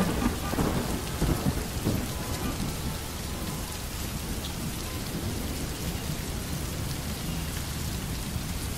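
Steady rain falling, with a low rumble of thunder that fades away over the first few seconds.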